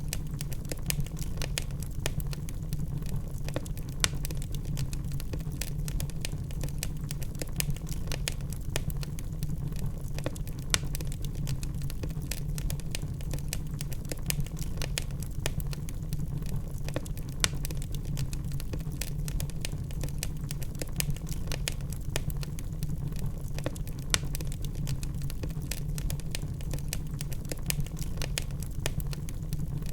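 Burning log fire crackling: many sharp pops and snaps at irregular intervals over a steady low rumble.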